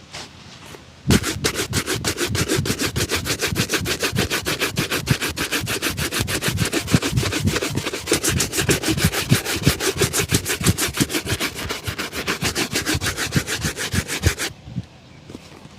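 Rapid back-and-forth buffing strokes on a polished leather shoe, about five a second, starting about a second in and stopping shortly before the end.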